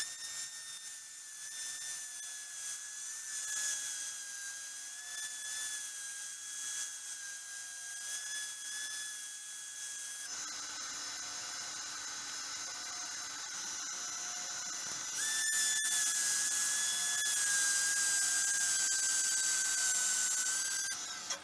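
Wood lathe running with a steady high whine while the spinning resin-and-wood vase is worked, with a hiss of abrasive or tool on the surface. The whine breaks off about halfway through and comes back louder a few seconds later, stopping just before the end.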